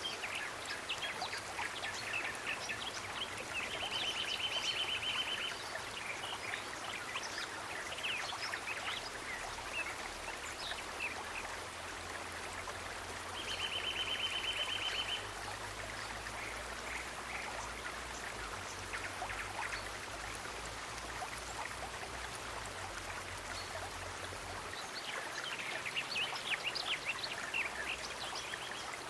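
Steady rush of flowing water with small birds chirping over it, the chirping growing busier near the end. Twice, about 4 s and 13 s in, a rapid high trill lasting a second or two.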